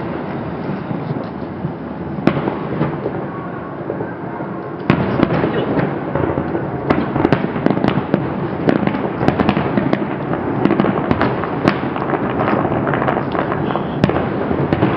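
Fireworks display: dense rapid bangs and crackles over a continuous rumble, growing much busier about five seconds in.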